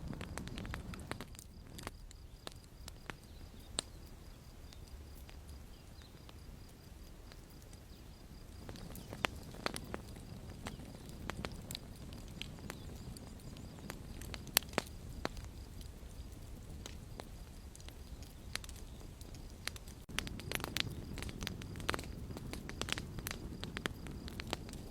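Campfire crackling: irregular sharp pops and snaps over a low steady rumble of burning, with a few louder snaps and a busier run of crackles near the end.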